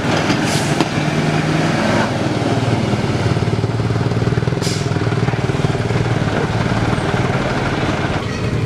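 A truck's diesel engine running steadily under load, with a slight rise and fall in pitch. Two short hisses cut through, about half a second in and again near five seconds.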